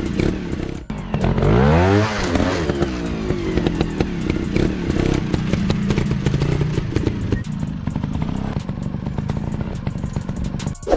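Dirt bike engine revving up sharply and dropping back about two seconds in, then running at a steadier throttle, with many sharp clicks and knocks over the engine.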